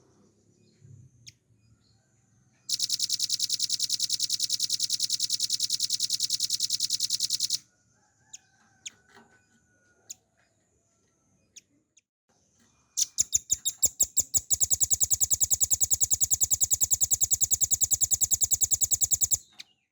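Velvet-fronted nuthatch singing two long, rapid trills of evenly spaced notes, each about five seconds. The second begins with a few separate notes before it speeds into the fast trill. Faint short chips come between the two trills.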